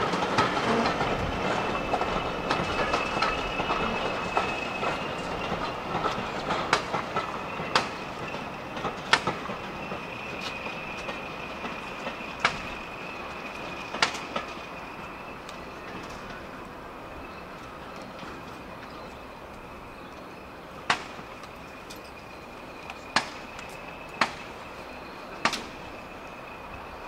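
Heritage train running away from the listener and fading, its wheels clicking sharply over rail joints every second or two at first and then only now and then. A faint steady high squeal runs under it.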